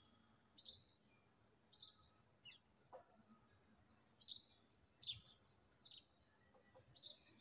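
A small bird chirping faintly and repeatedly, short high chirps about once a second.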